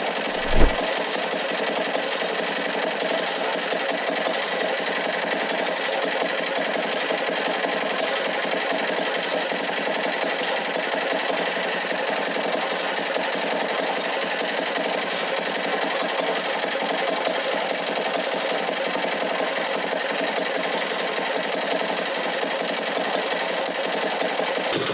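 Steady machine noise running evenly, with one low thump about half a second in.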